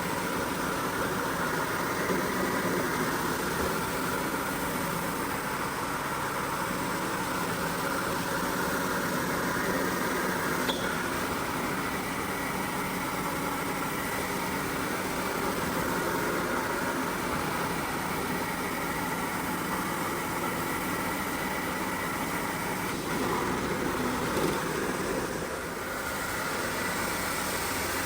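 Steady, even machine noise of a motor running without a break, with a faint click about eleven seconds in.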